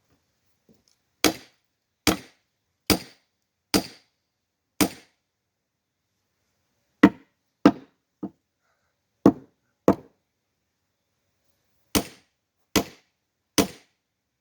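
Axe splitting firewood: about a dozen sharp chopping blows into a very hard log, in three runs of strikes roughly one every 0.8 s, with short pauses between the runs.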